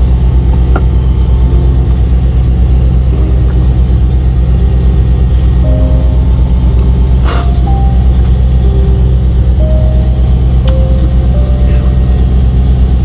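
Semi-truck diesel engine idling with a steady, deep rumble, described as kind of loud. A brief hiss cuts through about seven seconds in.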